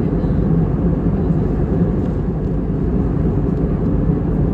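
Steady cabin noise of an Airbus A321neo in flight: the even roar of the engines and the airflow over the fuselage, heavy in the low end, with a low steady hum.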